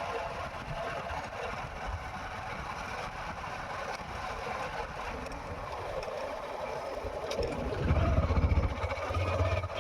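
A vehicle engine running steadily, with a louder low rumble about eight seconds in.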